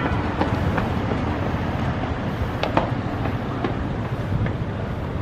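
Steady rumble of street traffic going by, with a few faint clicks and knocks.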